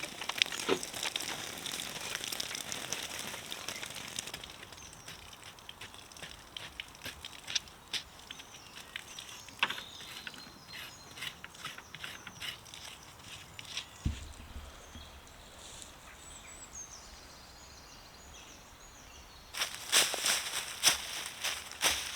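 Woodland ambience with scattered small clicks and crackles over a faint hiss and a faint high bird call, then crunching footsteps on the woodland floor in the last couple of seconds.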